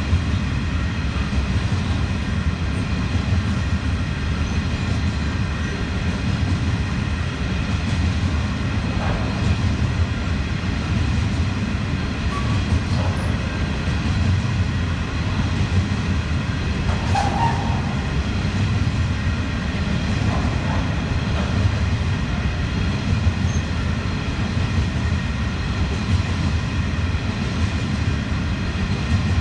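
Empty coal hopper wagons rolling past, their wheels on the rails making a steady low rumble, with faint high ringing tones over it.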